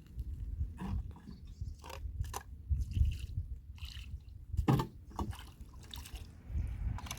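Irregular crunching and clicking, several short cracks spread unevenly, with the loudest, sharpest crack a little before five seconds in, over a low rumble.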